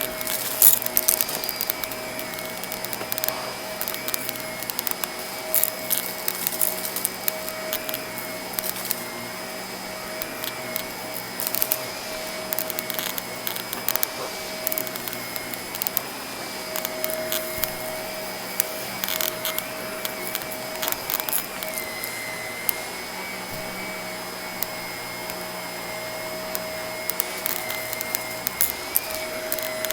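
Vacuum cleaner running steadily with a high, slightly wavering motor whine, while crunchy debris crackles and ticks up through it.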